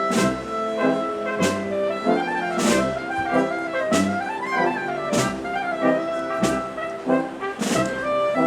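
Spanish processional marching band (banda de música) playing a slow march: brass and woodwinds holding full chords under a moving melody, with a drum or cymbal stroke marking the beat roughly every second and a quarter.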